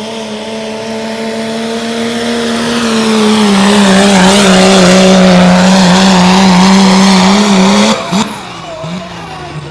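Diesel pickup truck engine at full throttle under load during a truck pull, its pitch held steady as it grows louder, then cut off suddenly about eight seconds in.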